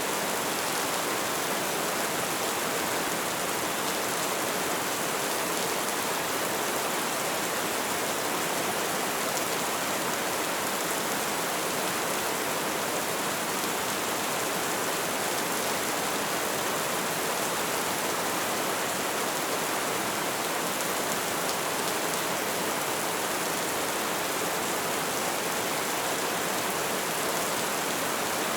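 Steady light rain falling, an even hiss of many drops with no single drop standing out.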